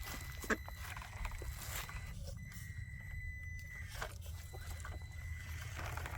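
Traxxas TRX4M electric RC crawler driving slowly, its motor and drivetrain giving a thin steady whine that swells slightly midway, with scattered clicks and taps of its tyres and chassis on rock over a low rumble.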